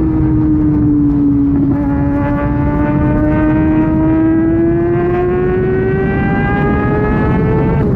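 Kawasaki Ninja ZX-6R's inline-four engine through an SC-Project exhaust at highway speed. Its note holds steady, dips slightly about two seconds in, then climbs steadily as the bike accelerates in one gear.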